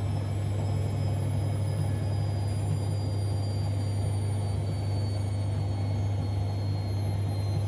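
Siemens Extraklasse XLs 140 A washing machine running: a steady low hum with a faint high whine that slowly falls in pitch.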